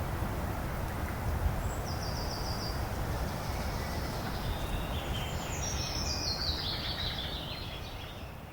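Steady outdoor ambient noise with a bird calling over it: a short rapid high trill about two seconds in, then a longer run of notes stepping down in pitch. The whole fades out near the end.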